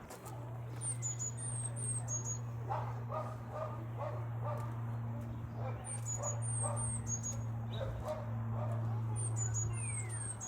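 A dog barking in quick runs of short barks, three bouts in all, with small birds chirping high above and a steady low hum underneath.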